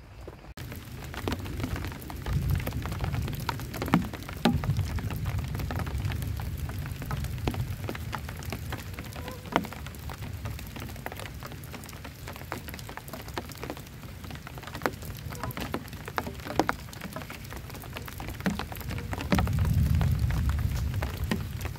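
Heavy rain pelting a camp shelter, a steady hiss scattered with sharp individual drop strikes. A low rumble of thunder swells twice, a couple of seconds in and again near the end.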